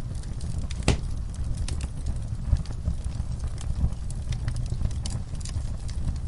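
Fire burning in a fireplace, crackling: a low steady rumble with scattered sharp pops at irregular intervals, the loudest pop about a second in.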